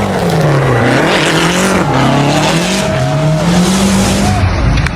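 Rally car engine at high revs, its pitch rising and falling several times as it accelerates, shifts and lifts off, with a sudden change in the sound near the end.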